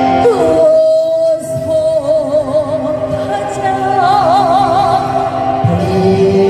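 Fusion gugak music performed live: a singer slides down onto a long held note that breaks into a wide vibrato about halfway through, over sustained instrumental accompaniment.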